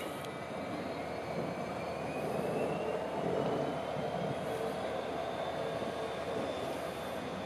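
Class 802 bi-mode train running slowly through depot sidings: a steady rumble with a faint thin whine that slowly rises in pitch.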